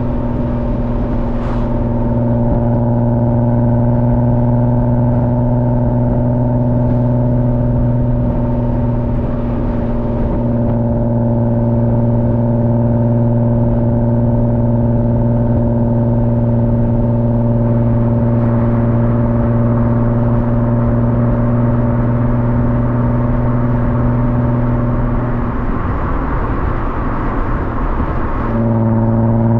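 Car engine held at steady revs, a constant loud drone. About 26 seconds in it eases off briefly, then comes back and starts to climb in pitch as the car accelerates at the very end.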